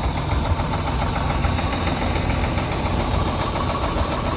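Truck's diesel engine running steadily, a continuous low drone.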